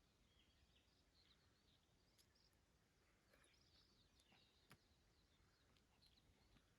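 Near silence outdoors with faint, scattered bird chirps and a single soft click about halfway through.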